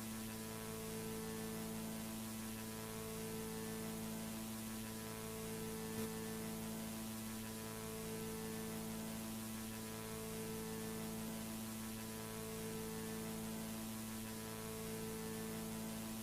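Steady electrical hum with a layer of static hiss. Some of its tones dip and return every couple of seconds, and there is one faint click about six seconds in.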